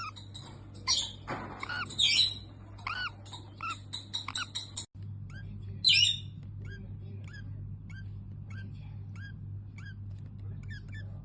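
A small pet bird chirping softly in quick, varied calls, then settling into short, even chirps about twice a second, with one louder squawk about six seconds in. A steady low hum runs underneath.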